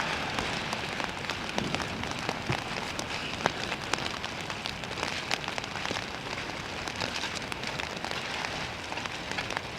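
Steady rain falling, with many close drops hitting in sharp ticks over the constant hiss.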